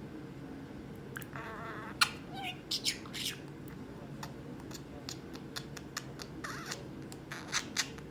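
Budgerigar chattering: short chirps, squawks and clicks, beginning about a second in, with the sharpest, loudest chirp about two seconds in.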